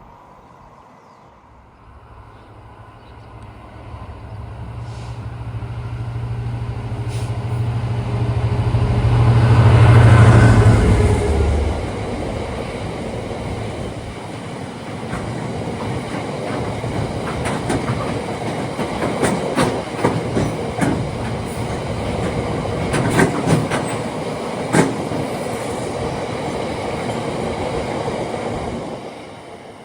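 Diesel-hauled freight train passing at speed: the locomotive's engine drone builds and peaks about ten seconds in, then a long rake of wagons runs by with a steady rhythm of wheel clicks over rail joints, falling away near the end.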